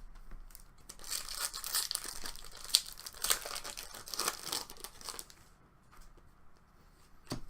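A hockey card pack wrapper is torn open and crinkled for about four seconds, with a crackly, papery sound. It is followed by a few soft clicks of cards being handled, then a sharper click near the end.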